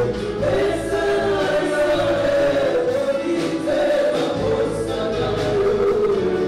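Congregation or choir singing a gospel praise song together, several voices in unison with a steady beat.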